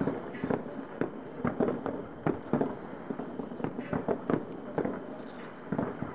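Aerial fireworks shells bursting in a rapid, irregular series of bangs, about two to three a second, during a fireworks display.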